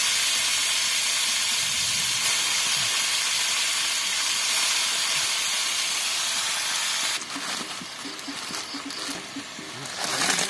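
Fern greens sizzling loudly in hot oil just after being tipped into the pan, a steady hiss that cuts off abruptly about seven seconds in.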